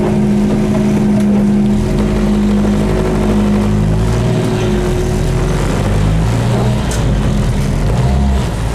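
Dodge Neon race car's four-cylinder engine heard from inside the cabin, running at low revs as the car creeps along, then pulling harder with rising revs as it picks up speed about six seconds in.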